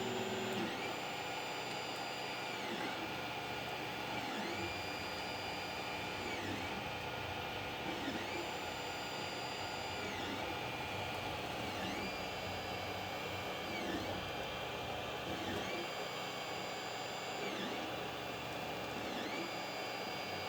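A machine running steadily, with a high whine that comes and goes in a regular cycle about every two seconds.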